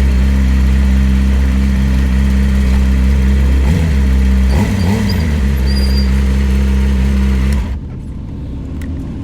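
Middleweight superbike racing motorcycle engine idling steadily, its pitch wavering briefly about four to five seconds in, then shut off abruptly near the end, leaving a few faint clicks.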